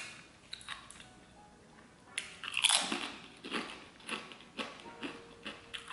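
Close-up eating sounds: a loud crunching bite into a guacamole-dipped tortilla chip about two seconds in, then crunchy chewing with about two crunches a second.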